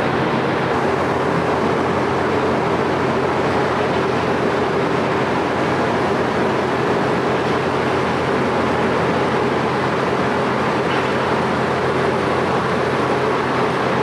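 Steady mechanical drone of a moving vehicle, an unbroken noise with a constant hum that does not change.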